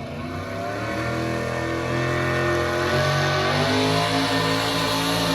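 Engine of a pulling vehicle running and growing louder, its pitch stepping up a few times as it revs.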